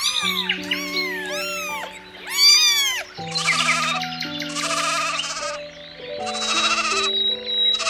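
Sheep bleating several times from about three seconds in, long wavering bleats over steady background music; before that, a few rising-and-falling cat meows.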